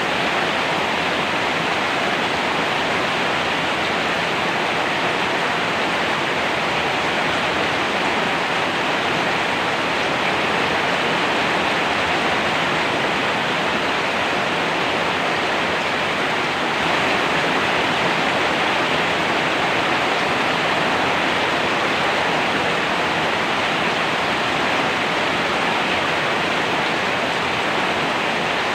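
Steady heavy rain: a dense, even hiss without separate drops standing out.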